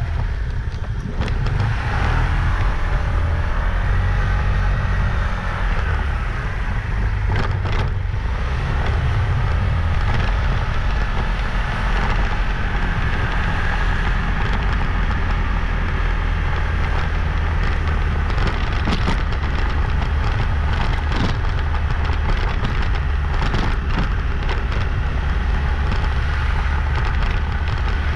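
Motorbike engine running while riding, its pitch rising and falling with the revs over a steady low rumble, with scattered short knocks.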